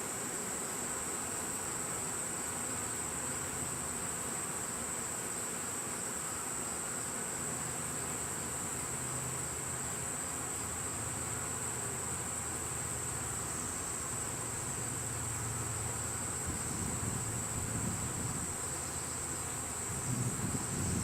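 Crickets trilling in a steady high-pitched chorus, with a low hum of honeybees flying around the hive growing stronger about a third of the way in.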